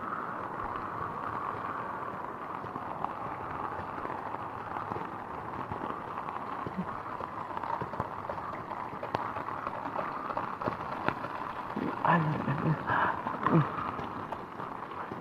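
Steady rushing noise of floodwater, with brief voices near the end.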